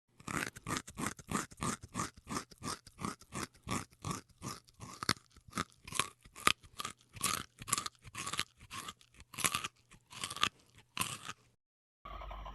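Crisp food being chewed with repeated crunches, about two to three a second, steady at first and more uneven later, stopping shortly before the end.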